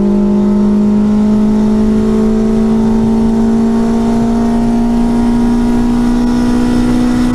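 Renault Clio rally car's engine accelerating in one gear, its note rising slowly and steadily, heard from inside the cabin over a low rumble of road and tyre noise.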